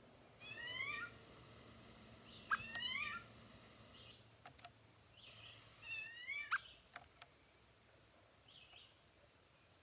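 A bird calling in short mewing phrases, each a quick run of upward-sweeping notes, repeated three times with pauses between.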